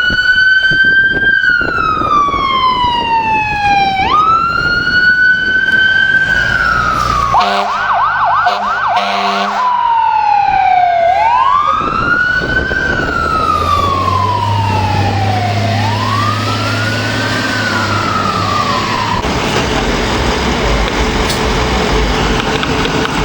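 Emergency vehicle's electronic siren sounding a slow wail, each cycle rising quickly then falling over a few seconds. About eight seconds in it switches briefly to a fast yelp, then goes back to the wail, with a heavy vehicle's engine rumbling under it. The siren fades out over the last few seconds.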